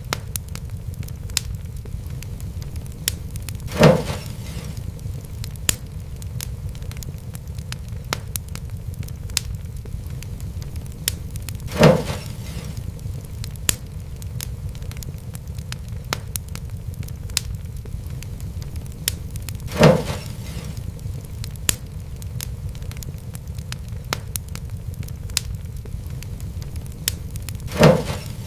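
Fireplace wood fire crackling: a steady low rumble under a constant scatter of small sharp crackles, with four louder pops spaced evenly about eight seconds apart.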